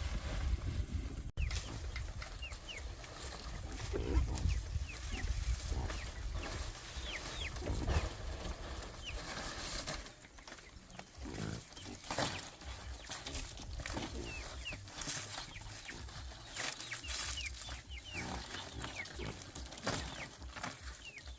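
Farm animals: pigs grunting now and then, over many short, high chirps that fall in pitch.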